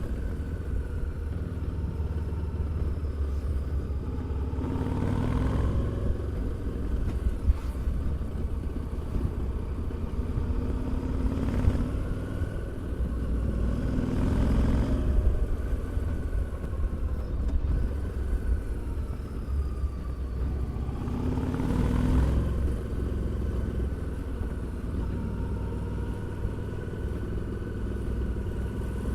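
Harley-Davidson Street 750's V-twin engine and exhaust under way, a steady low rumble that swells a few times as the bike accelerates, its pitch climbing and then dropping back at each gear change.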